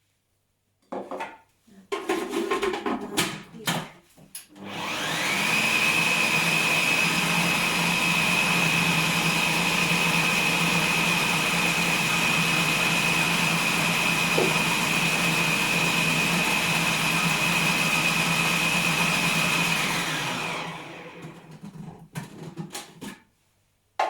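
Food processor blending pesto: a few knocks and clatters, then the motor whines up to speed, runs steadily for about fifteen seconds and winds down, followed by a few more clatters.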